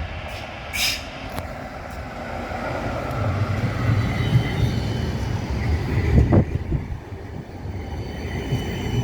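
Tram running past, a steady low rumble of wheels on rail with a faint motor whine. There is a short high wheel squeal about a second in.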